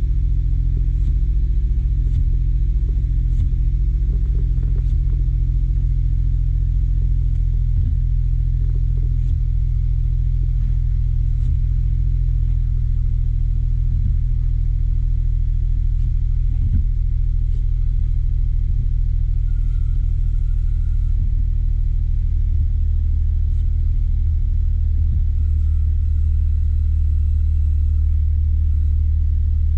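Suzuki Jimny JB23's 660 cc turbocharged three-cylinder engine running steadily with a low hum.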